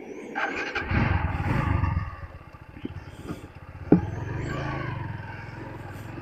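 TVS Apache RTR 160 4V's single-cylinder engine running, revving up about a second in and then settling to a steadier note, with one sharp knock about four seconds in.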